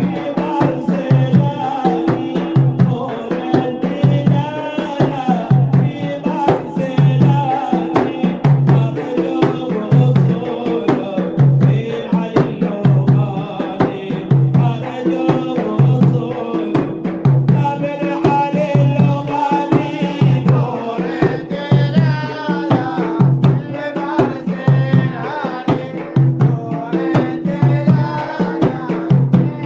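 Maled chant: male voices singing over frame drums that beat a steady, repeating rhythm.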